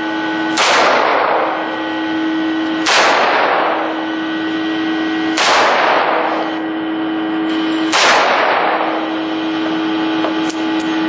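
Four .308 rifle shots fired at a steady pace, about two and a half seconds apart, each trailing off in a long echo. A steady hum sounds underneath.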